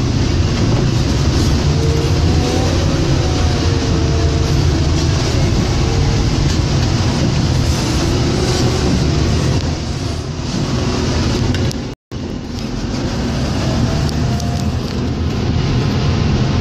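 John Deere 624J wheel loader's diesel engine running steadily under load while pushing snow with a plow, a heavy low rumble. The sound cuts out for a split second about twelve seconds in.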